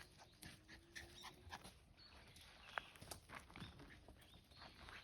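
A dog faintly panting and moving about, with scattered light clicks and rustles; quiet overall.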